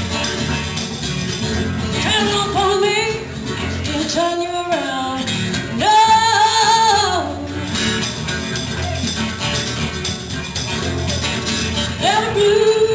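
Live band music: a melody of long held notes over a steady guitar accompaniment.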